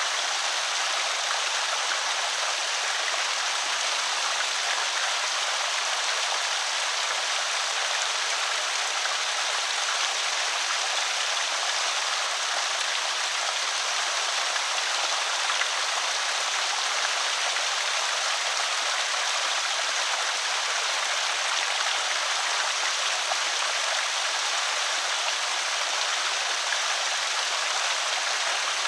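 Water of a small creek spillway pouring and splashing steadily, a continuous hiss-like rush with no breaks.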